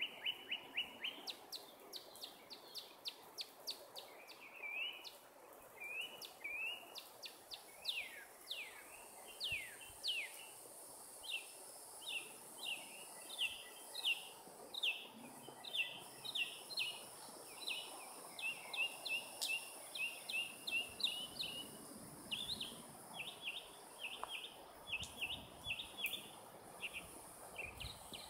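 A bird calling on and on, a long run of quick chirps, many sliding down in pitch, a few a second.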